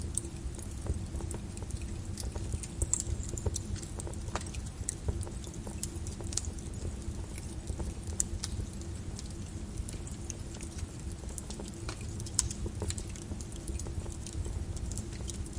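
Flowing lava crackling: a steady low rumble under many scattered, irregular sharp crackles and clinks.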